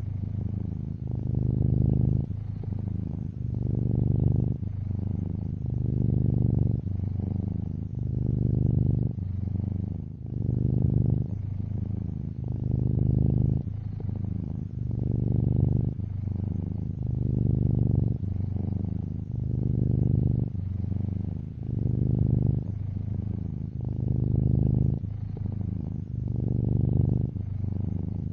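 Domestic cat purring close to the microphone, swelling and fading in even cycles of about one every two seconds as it breathes in and out.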